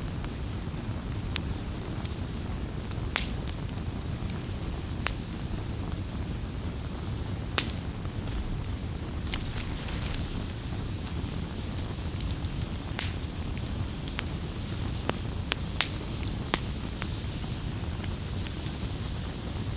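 Campfire crackling: irregular sharp pops and snaps of burning wood, two of them louder, about three and seven and a half seconds in, over a steady low rumble of the flames.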